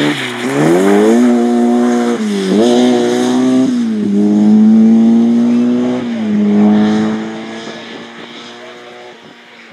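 Rally car engine under hard acceleration, climbing in pitch with sharp dips at each gear change about three times, then fading away as the car drives off.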